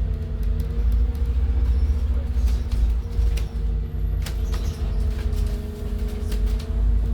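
Scania N280UD CNG double-decker bus under way, heard from the top deck: its Scania DC09 gas engine and Voith four-speed automatic give a deep steady rumble with a hum and a faint whine that drifts slightly in pitch. A few light clicks and rattles come in the middle.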